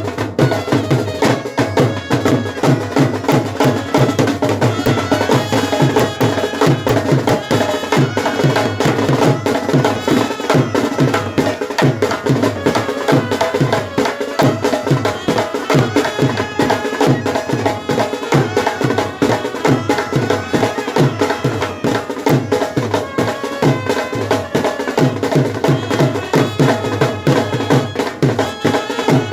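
Brass band playing traditional music: held brass tones over a fast, steady drumbeat.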